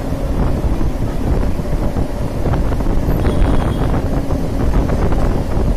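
MEMU electric train running at speed, heard from on board: a steady low rumble with irregular clicks and knocks from the wheels on the rails, and wind buffeting the microphone.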